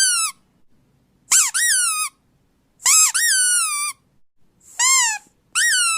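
A run of high-pitched squeaks, each rising and then falling in pitch, about five in a row with short silent gaps; the last is held longer and stays level.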